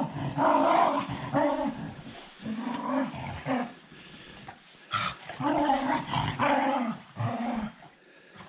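Dog growling and grumbling at close range in a run of short pitched calls, in three bouts with brief pauses between.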